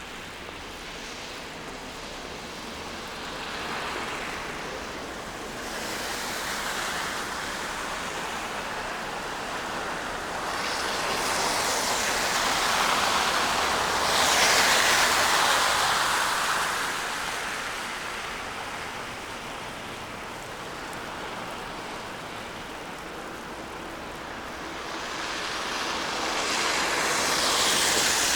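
Street traffic passing on a snowy, wet road: the tyre hiss of several vehicles swells and fades one after another, loudest about halfway through and again near the end.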